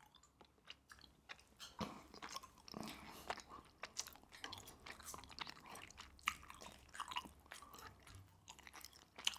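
Faint, close-miked chewing of a mouthful of shell-on prawn, a run of irregular small clicks and smacks.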